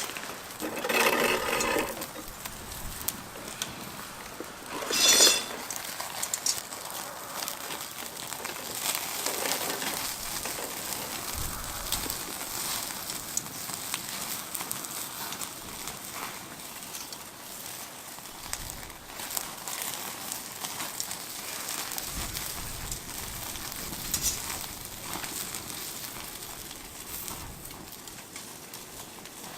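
Meat sizzling on a grill over a fire, a steady crackling hiss. Twice, about a second in and again about five seconds in, a short, loud pitched cry cuts through.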